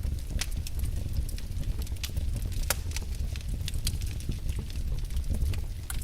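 Wood fire burning in a fireplace: a steady low roar of flames with irregular sharp crackles and pops of burning logs, several a second.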